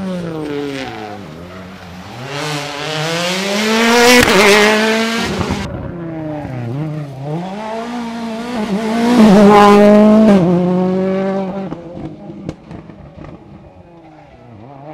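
Rally car engine revving hard, its pitch dropping and climbing through gear changes. It is loudest about four seconds in and again from about nine to eleven seconds, then fades away.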